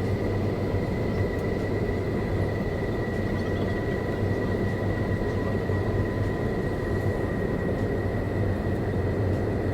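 Jet airliner engine noise heard inside the passenger cabin: a steady rumble with a constant high whine over it.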